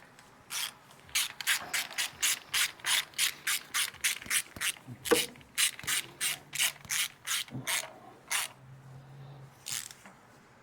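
Hand ratchet wrench worked in quick, even strokes on a bolt, clicking about three times a second for most of the stretch, with one last stroke near the end.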